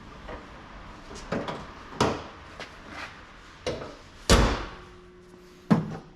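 A series of sharp knocks and clunks, about seven, with a short ring after each; the loudest comes a little past four seconds in.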